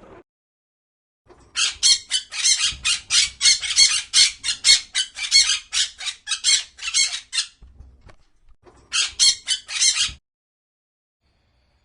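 A bird giving a rapid series of harsh squawks, about three or four a second, breaking off for a moment and then squawking a few more times near the end.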